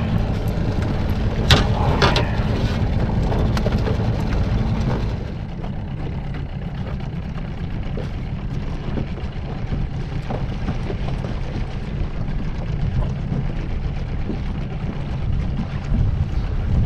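Steady low rumble aboard a small fishing boat, with a few sharp knocks in the first couple of seconds; the rumble drops in level about five seconds in.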